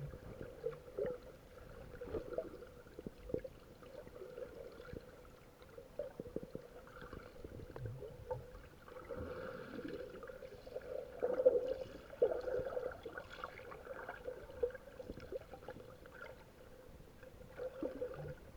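Underwater sound picked up by a submerged camera: muffled gurgling and small irregular clicks of water moving around a person treading water, over a faint steady hum.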